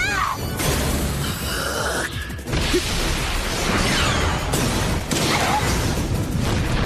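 Animated battle sound effects: several loud rushing noises that start and cut off suddenly, over faint music.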